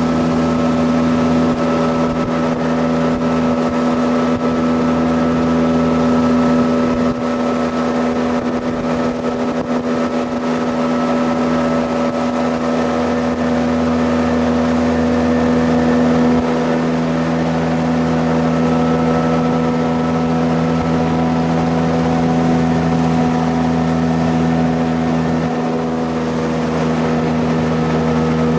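Jet boat engine running steadily under way, a constant drone that holds one pitch.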